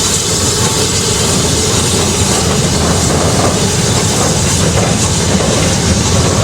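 Steam-hauled train running on the line: a loud, steady rush of wheels on track mixed with steam noise.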